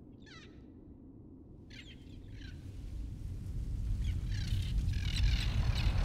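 Short bird calls, repeated several times, over a deep rumble that swells steadily louder from about two seconds in.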